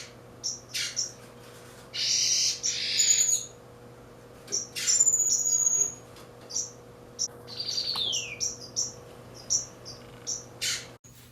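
Aviary finches calling: many short high chirps, with a couple of longer, rougher calls and a single falling whistled note.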